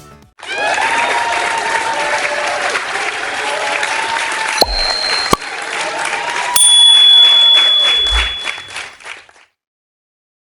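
Crowd applauding and cheering, with high-pitched cheering voices over the clapping, stopping suddenly near the end. Partway through, two sharp clicks each bring a bell-like ding that rings on for a moment.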